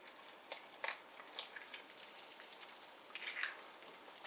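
A few faint clicks and light knocks of kitchen handling, with a short rustle a little over three seconds in.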